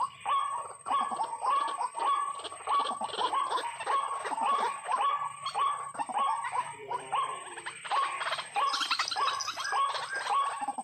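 White-breasted waterhen calls repeated over and over, about two notes a second, with other calls overlapping.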